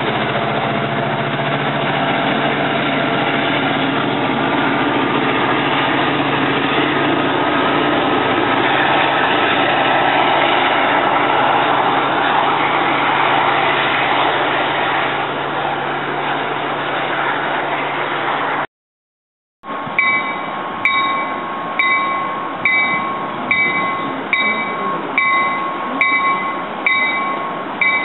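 A Metro-North diesel locomotive-hauled train pulling away, with a steady engine hum under a slowly rising whine. After a cut, an arriving NJ Transit push-pull train with its bell ringing about once a second over the running noise of the train.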